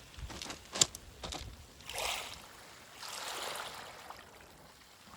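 Waves washing in over a pebble beach in two swells of hiss, with sharp clicks of stones knocking together in the first second and a half, the loudest a little under a second in.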